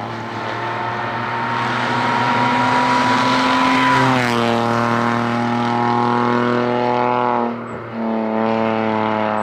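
Toyota Aygo N3 rally car's engine pulling hard at full throttle. Its revs climb, drop with a gear change about four seconds in, then hold steady, with a brief lift and dip about three seconds later.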